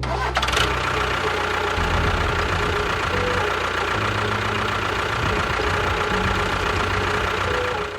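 A small machine running steadily with a dense rattle, starting just after the start and cutting off sharply at the end, over background music.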